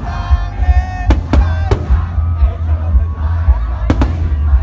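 Loud live band music with heavy bass and a singing voice, with fireworks bursts cracking over it: three sharp bangs a little after a second in and two more near the end.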